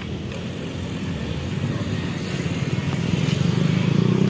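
A motor vehicle engine running with a low rumble that grows steadily louder, as if approaching.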